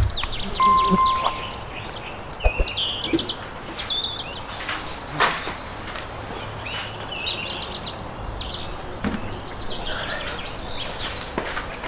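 Small birds chirping and singing in short, quick phrases, with a few sharp knocks, the loudest about five seconds in.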